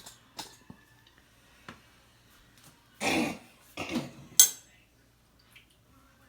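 Metal spoon knocking and scraping in a cooking pot while serving out curry chicken, a few scattered clicks then a short noisy burst about three seconds in and a sharp metallic clink just after four seconds.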